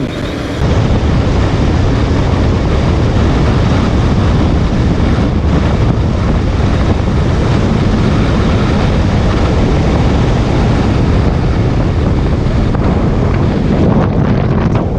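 Steady wind noise rushing over the microphone of a Honda CBR motorcycle riding at highway speed, starting about half a second in.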